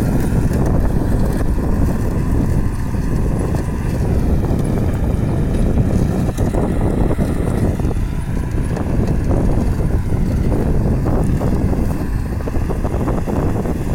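Kubota farm tractor's diesel engine running steadily under load, pulling a disc plough through hard paddy soil.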